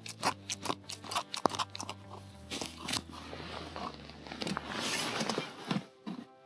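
Close crunching and snipping clicks from maggot bait being cut up. A quick run of sharp clicks comes in the first two seconds, followed by softer, rougher crunching.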